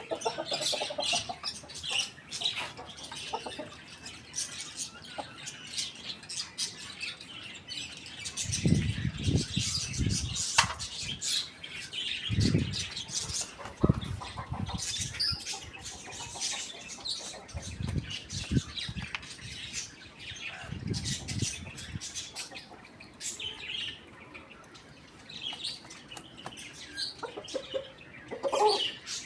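Chickens on a roof: scattered short high calls and chirps, with several short bursts of low noise between about 9 and 22 seconds in.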